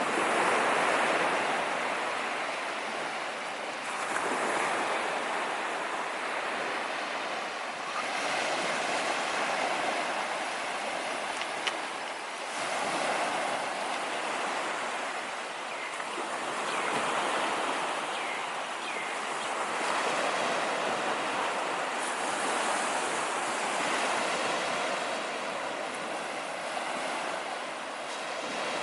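Sea waves breaking and washing up on a beach, each new wave swelling up about every four seconds.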